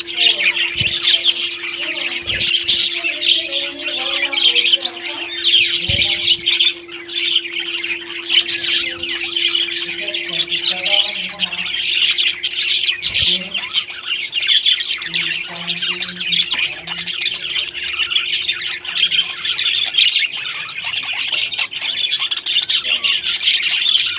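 Pet parrots chirping and squawking nonstop, a dense, busy chatter of several birds at once.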